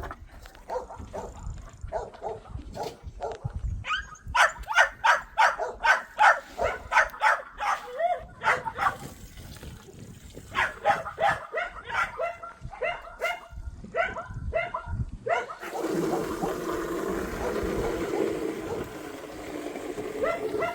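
Dogs barking in quick runs of a few barks a second, with a short pause about nine seconds in. For the last few seconds the barking gives way to a steadier, noisier sound.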